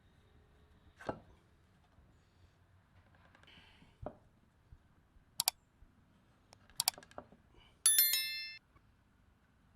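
Glass being handled, most likely the cut whiskey-bottle bowl: a couple of soft knocks, two sharp clinks, then near the end one bright clink that rings briefly with a bell-like tone before dying away.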